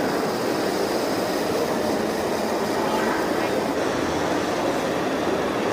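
Small electric motors of toy vehicles running steadily, an even rumbling noise.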